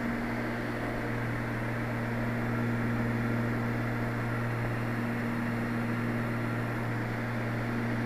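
Light aircraft's engine and propeller running steadily in flight, picked up inside the cabin by a microphone in the pilot's headset: an even low drone with a steady higher tone above it.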